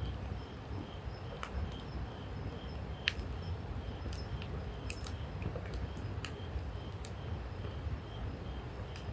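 Wood campfire crackling, with scattered sharp pops over a low steady rumble of the burning fire.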